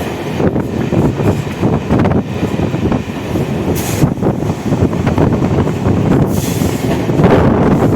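Suburban electric local train heard on board while running: a steady rumble of wheels on track, broken by irregular knocks as the wheels cross rail joints, with a brief hiss twice.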